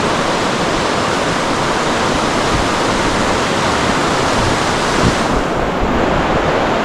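Steady rushing of fast-flowing water. Its high hiss thins out about five seconds in.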